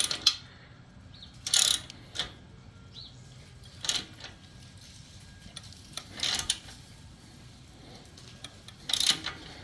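Ratchet wrench cranking down an exhaust muffler clamp in short bursts of clicking with pauses between, several turns needed to draw the clamp tight.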